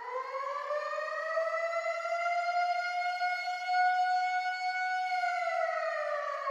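Warning siren sounding a single long wail: it winds up in pitch over the first couple of seconds, holds a steady tone, then begins to wind down about five seconds in. It is an alert siren sounded during flooding on a high-alert day.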